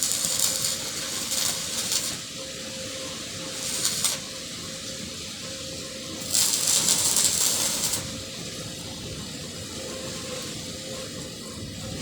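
Electric arc welding in short runs: three bursts of crackling, hissing arc noise, about two seconds at the start, a brief one about four seconds in, and a longer one of about a second and a half near the middle.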